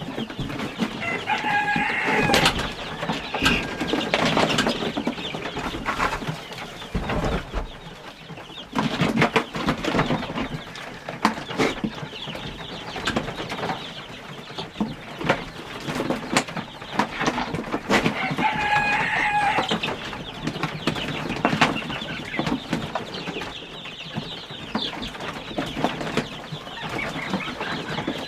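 Flock of chickens clucking and calling, with a louder pitched call twice, among many small clicks and knocks.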